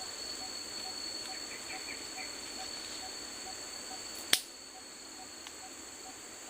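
Forest ambience: a steady high insect drone over a soft pulsing call repeating about twice a second, with a few faint chirps. One sharp click about four seconds in, after which the background drops slightly.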